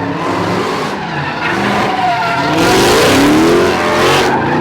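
Car engine revving hard while its spinning tyres screech, kicking up smoke in a burnout; the revs climb and the tyre screech is loudest for about two seconds in the middle.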